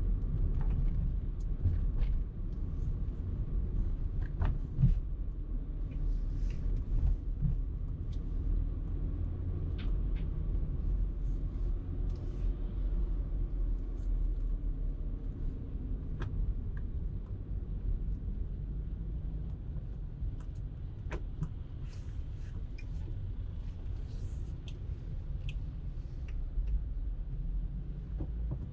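Car driving, a steady low rumble of engine and road noise, with scattered faint clicks and ticks.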